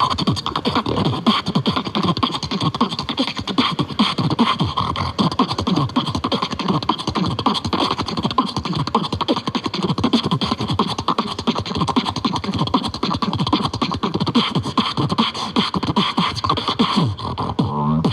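Continuous fast human beatboxing: rapid mouth-made drum hits layered with low, sweeping bass sounds.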